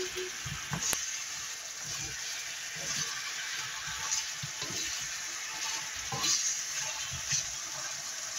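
Pork belly sizzling in a wok as the adobo sauce cooks down, with a wooden spatula scraping and knocking against the pan at irregular moments as it is stirred.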